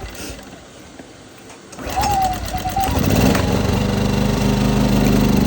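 Westinghouse 2500 inverter generator pulled on its recoil starter about two seconds in, catching a second later and running steadily on starter fluid, the sign of a bad carburetor.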